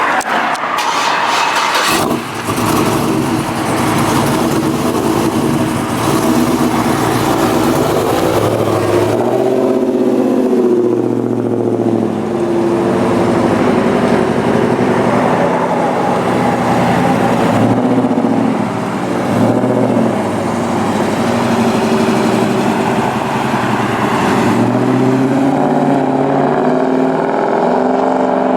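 A vehicle engine running loudly, its pitch rising and falling several times as it is revved.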